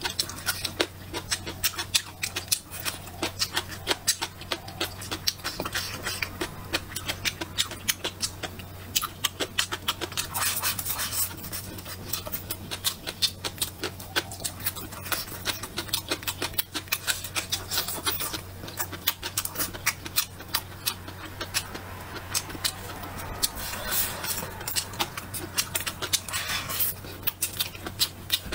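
A person eating close to the microphone: wet chewing and lip smacks, a dense run of irregular clicks and crunches. A steady low electrical hum sits underneath.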